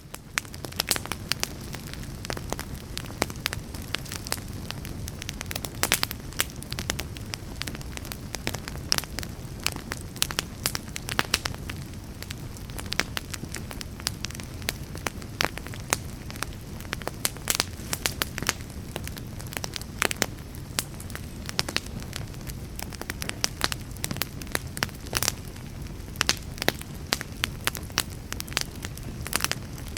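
Wood fire burning, with a steady low rumble and frequent irregular crackles and pops from the burning wood.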